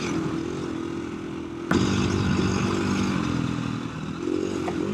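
KTM 350 EXC-f single-cylinder four-stroke dirt bike engine running and changing pitch with the throttle while riding through whoops. A sharp knock comes about two seconds in, and the engine is louder after it.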